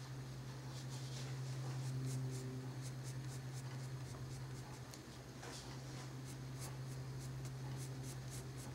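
Colored pencil strokes rubbing lightly on paper in a quick run of short scratches, as shadows are shaded in, over a steady low electrical hum.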